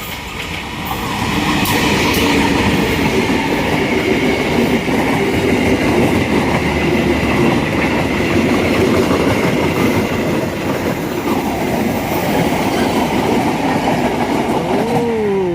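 Serayu passenger train rolling past at close range, its wheels clattering over the rail joints, with a steady high tone above the noise. The noise builds about a second in and holds loud until near the end.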